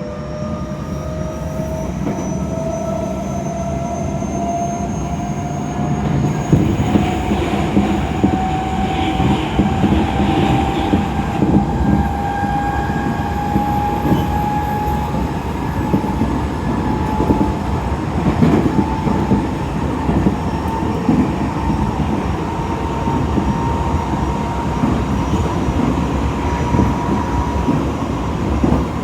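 Tokyo Metro 7000 series commuter train heard from inside the car while running. A motor whine rises slowly in pitch as the train gathers speed, over the rumble of the running gear. The rumble grows louder about six seconds in, with wheels clattering over the rails.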